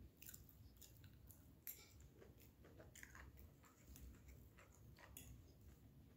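Faint close-up chewing of a person eating steamed broccoli: soft wet mouth sounds with scattered short clicks, the sharpest between one and two seconds in.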